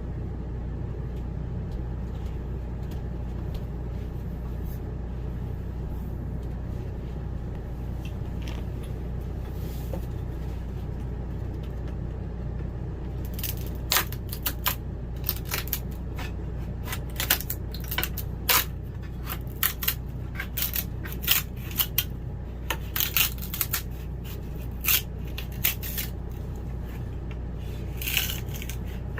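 A steady low hum, and from about halfway through, a run of sharp clicks, taps and light scrapes from small hard objects being handled, typical of hardware and hand tools at work on a cabinet.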